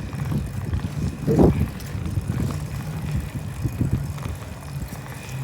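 Wind rumbling and buffeting on the microphone of a moving bicycle, with one louder swell about a second and a half in.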